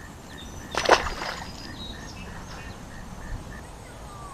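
One brief, loud splash-or-swish burst about a second in, over outdoor background with a faint chirp repeating two or three times a second and a few short bird-like chirps.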